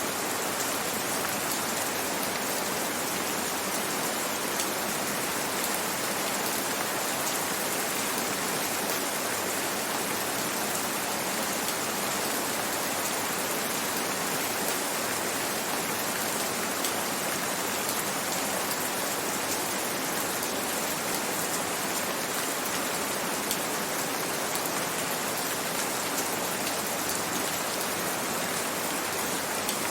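Gentle rain falling steadily: an even hiss with fine drop patter that does not let up.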